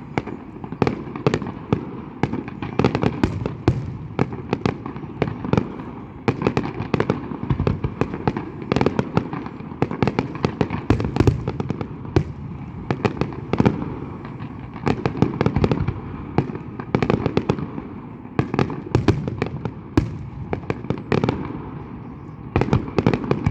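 New Year fireworks display: a dense, continuous barrage of bangs and crackles, many shells bursting each second, over a low rumble.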